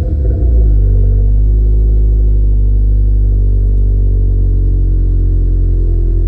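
2024 Subaru WRX's turbocharged 2.4-litre flat-four running through its stock exhaust. It comes down from a brief rev in the first half-second or so, then holds a steady, loud idle.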